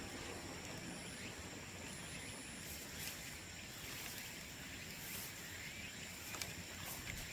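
Bamboo bonfire burning with a steady crackle and a few sharp pops.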